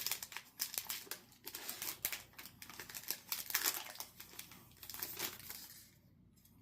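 Magic: The Gathering booster pack wrapper being torn open and crinkled, an irregular crackling that stops near the end.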